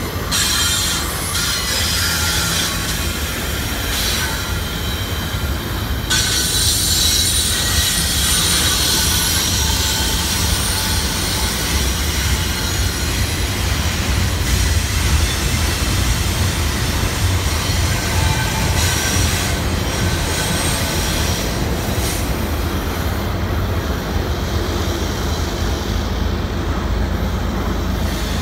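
CSX double-stack container train rolling past on a curve: a steady low rumble of the cars with high wheel squeal, loudest from about six seconds in to around the middle.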